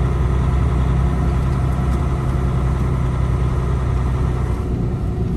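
Semi truck's diesel engine running steadily at low revs, heard from inside the cab. The low drone shifts slightly near the end.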